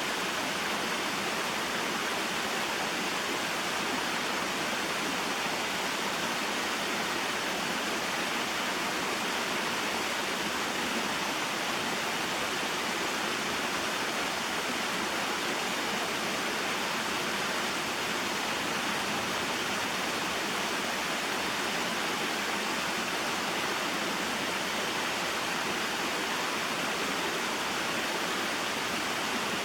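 Small mountain waterfall and stream: water falling and running over rocks in a steady, even rush.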